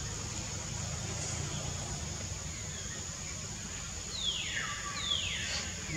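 Outdoor ambience of a steady high drone over a low hum, with a bird giving two quick falling whistled calls about four seconds in.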